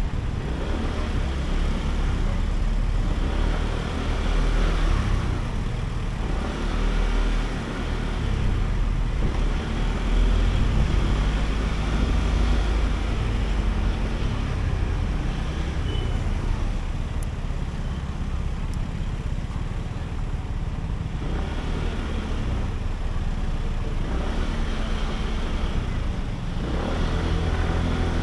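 Sym Jet X 125 scooter being ridden through city traffic: its single-cylinder engine running steadily under road noise, the level rising and easing a little now and then.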